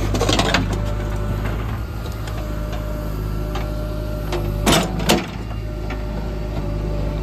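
JCB 3DX backhoe loader's diesel engine running steadily while loading murum, with clattering at the start and two sharp knocks about half a second apart just after the middle.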